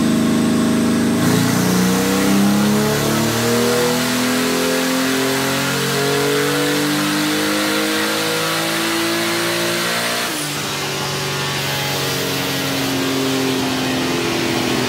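Twin-turbo GM Vortec 4200 straight-six in a 1974 Datsun 260Z running under load on a chassis dyno. Its pitch climbs steadily for about nine seconds, drops briefly around ten seconds in, then climbs again.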